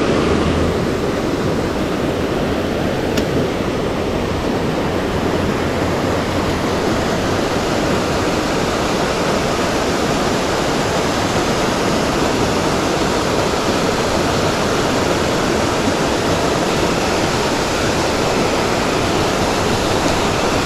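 Steady loud rush of flowing water, an even noise that does not change throughout.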